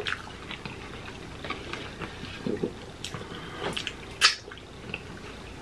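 Close-miked chewing and wet mouth sounds of people eating: a scatter of small smacks and clicks, the sharpest about four seconds in.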